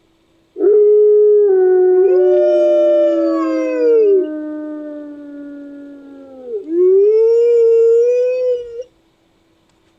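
Sound-effect howls of an imaginary sabre-toothed wolf, built from layered wolf-howl recordings. A long falling howl starts about half a second in, with a second howl rising and falling over it. Near the end a shorter rising howl cuts off suddenly.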